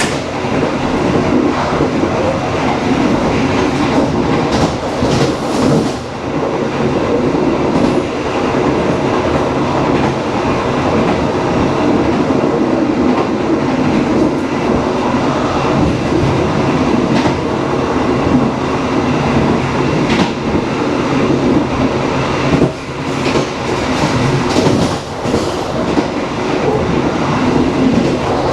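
Passenger train running along the track: a steady, loud rumble of the moving carriages, with wheels clacking over rail joints now and then.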